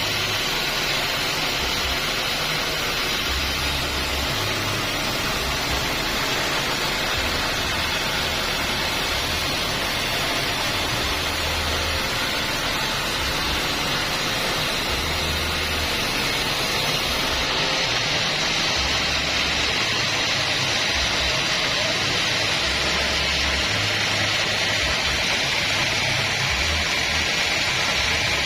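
Band sawmill running, a steady, even hiss with no breaks.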